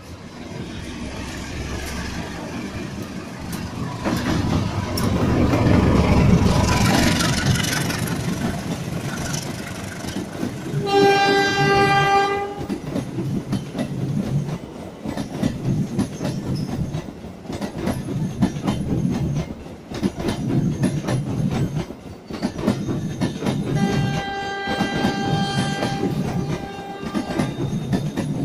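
A CC 201 diesel-electric locomotive hauling passenger coaches passes close by, its rumble building to its loudest about six seconds in. The coaches' wheels then clatter rhythmically over the rail joints. A train horn sounds twice: a blast of about a second and a half near eleven seconds in, and a longer one of about three seconds near twenty-four seconds.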